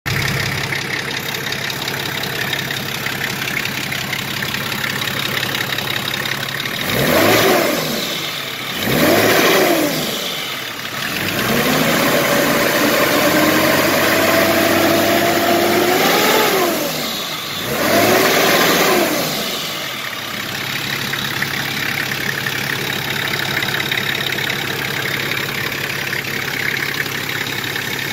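Nissan TD42 straight-six diesel engine idling, then revved: two quick blips of the throttle, a rev held for about five seconds with the pitch creeping up, a final blip, and then settling back to a steady idle.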